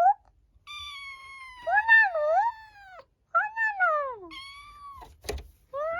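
Stray kitten meowing over and over: a long drawn-out call of about two seconds, then shorter calls that fall in pitch, with a sharp click a little after five seconds in.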